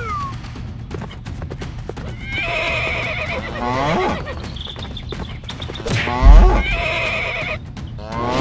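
Horse neighing twice, each call about a second or two long with a wavering pitch, over the clip-clop of hooves. A heavy low thud a little after six seconds in is the loudest sound.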